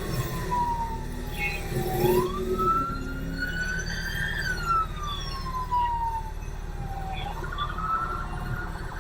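Police car siren on a slow wail, its pitch sweeping down and back up roughly every five seconds over a steady low vehicle rumble.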